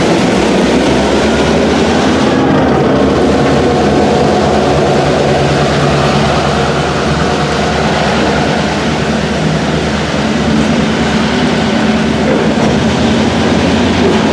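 Steel-wheeled ballast hopper cars of a freight train rolling past at close range: a steady, loud rumble of wheels on rail.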